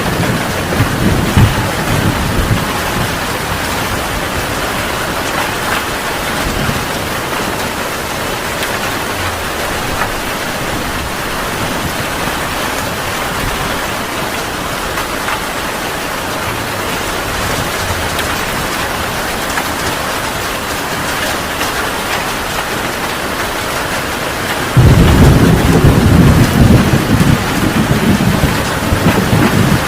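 Heavy rain falling steadily in a thunderstorm. A rumble of thunder fades out in the first couple of seconds. About 25 seconds in, a loud, deep roll of thunder sets in suddenly.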